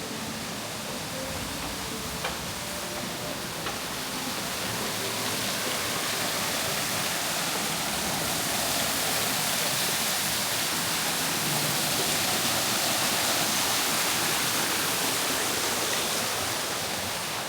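Rushing water, a steady hiss that swells for several seconds and then fades again.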